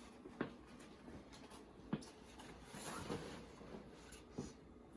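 A few short, faint knocks and rustles of camp cookware and utensils being handled and packed into a pack, four light knocks spread a second or so apart.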